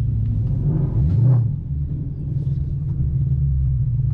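Car engine running with a steady low drone, with a brief rise in pitch about a second in.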